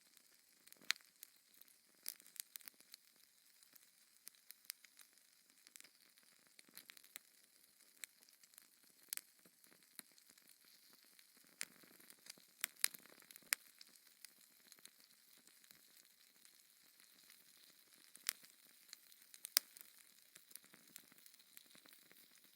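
Fire in a fireplace crackling: irregular sharp pops and snaps over a faint, steady hiss, with a few louder pops now and then.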